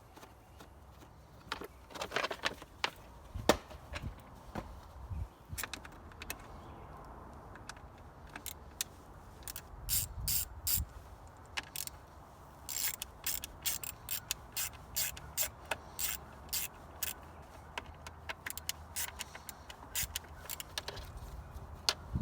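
Irregular mechanical clicks and knocks, with a run of evenly spaced sharp clicks, about two to three a second, in the middle; no engine running.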